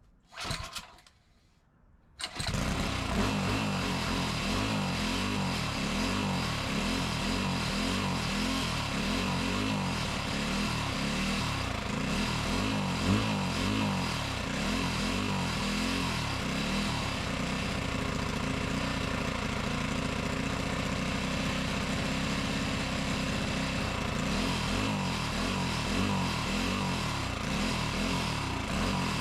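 Predator 212 single-cylinder four-stroke engine on a mini bike catches about two seconds in and runs steadily after that. The engine is brand new, on its first break-in run.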